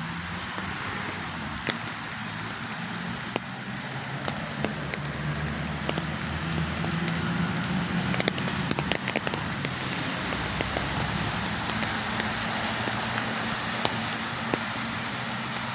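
Steady rain falling, with many sharp, close drop impacts scattered through it. Beneath it a low rumble swells to its loudest about halfway through and eases off again.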